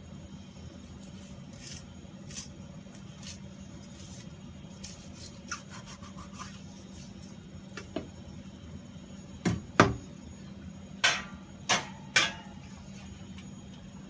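Knife work on a wooden cutting board: soft scraping and clicks, then a quick run of five sharp knocks, the loudest about ten seconds in, over a steady low hum.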